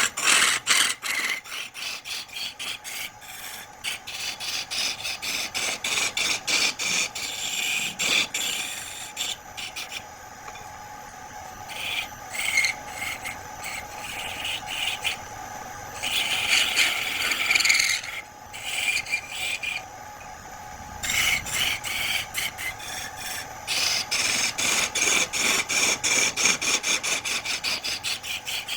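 Wood being rasped or scraped by hand in quick repeated strokes, about three to four a second, with a couple of short pauses. A faint steady hum runs underneath.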